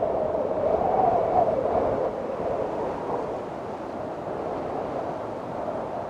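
Windstorm: strong wind blowing in gusts with a wavering howl that rises and falls in pitch. It is loudest over the first two seconds, then eases to a steadier blow.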